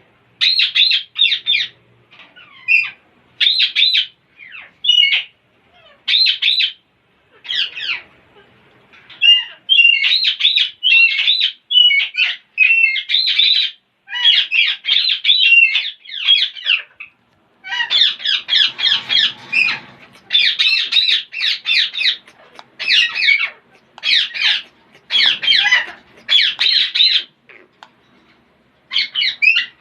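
Parrots squawking and chattering: high-pitched harsh calls in quick bouts, broken by short pauses.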